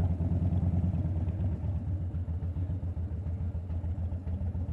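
Harley-Davidson Dyna Fat Bob's V-twin engine running steadily under way, a deep even rumble of exhaust pulses.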